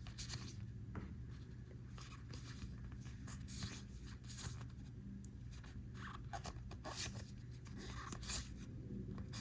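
Trading cards being handled: soft scattered slides, flicks and rustles as cards are sorted through, over a steady low hum.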